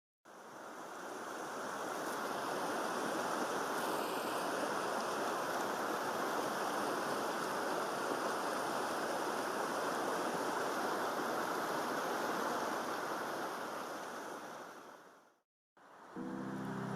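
Steady rushing water, fading in at the start and fading out about a second and a half before the end.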